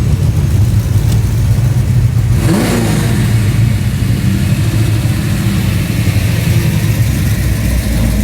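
Car engine running loudly with a steady deep note, its pitch rising briefly about two and a half seconds in as the throttle is blipped.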